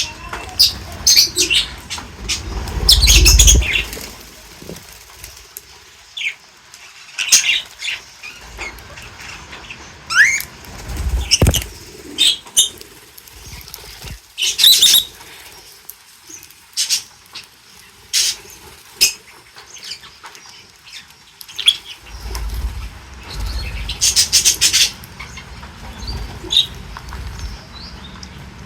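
A group of birds calling in many short, sharp chirps and squawks, with a few bouts of wing flapping.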